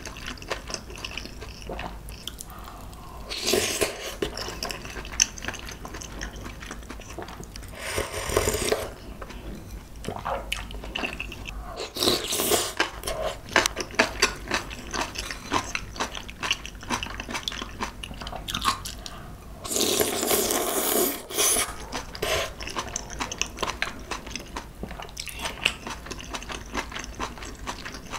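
Close-miked eating: a person biting and chewing a dumpling, with crunchy bites and many small mouth clicks, and four louder bursts spread a few seconds apart.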